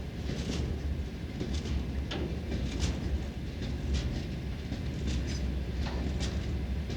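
Freight train rolling past, a steady low rumble with sharp wheel clicks over the rail joints about once a second.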